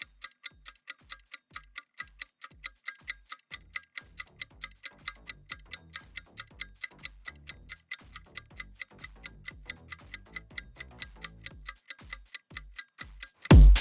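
Steady ticking, about four ticks a second, like a timer, in a quiet stretch of electronic background music. A soft low beat runs under the ticks through the middle.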